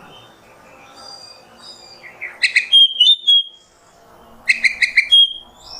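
Oriental magpie-robin (kacer) singing: two loud phrases, about two and a half and four and a half seconds in, each a quick run of three or four notes ending in a drawn-out whistle, with softer high warbling notes between them.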